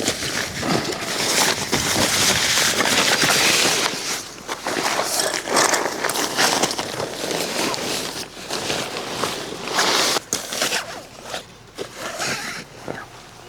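Irregular rustling, crinkling and scuffing from camping gear being handled during tent setup, in uneven bursts with no steady machine sound.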